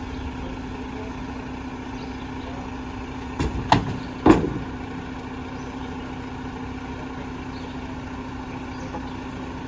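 Mack MRU garbage truck's diesel engine idling steadily, with three sharp knocks in quick succession about three and a half to four and a half seconds in.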